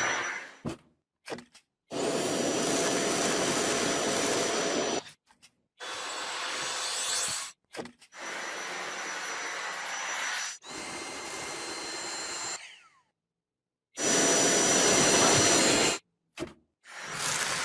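Vacuum cleaner running in several short clips that start and stop abruptly, a steady rush of air with a thin high whine from the motor.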